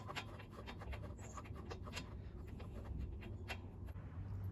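Faint, irregular light clicks and scrapes of a loosened spark plug being spun out of the engine's cylinder head by hand, over a steady low hum.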